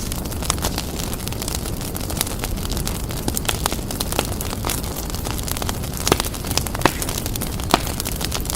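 Fireplace fire crackling and popping over a steady low rumble, with a few louder pops in the last few seconds.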